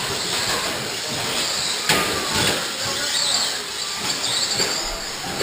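Electric short course RC trucks racing on a dirt track: high motor whine rising and falling, with a sharp knock about two seconds in.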